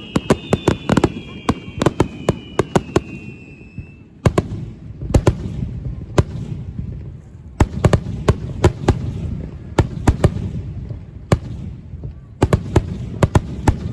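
Aerial fireworks going off: a rapid string of sharp crackling reports for about the first four seconds, then single bangs at irregular intervals over a low rumbling echo. A whistle falling slowly in pitch fades out about four seconds in.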